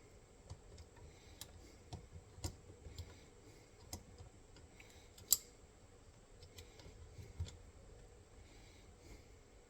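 Faint scattered clicks and taps of steel trap parts and bolts being handled as an MB-550 foothold trap is put back together, with one sharper metallic click about five seconds in.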